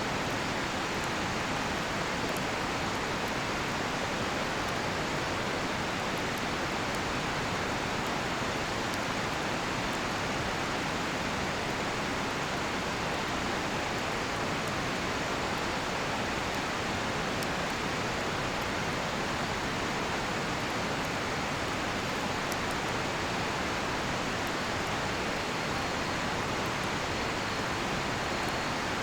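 Steady rush of a river flowing close by, with faint scattered crackles from a cedar-log campfire.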